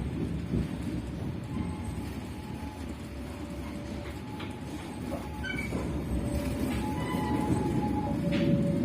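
Penataran Dhoho passenger train under way: a steady low rumble of wheels on the rails, growing louder near the end.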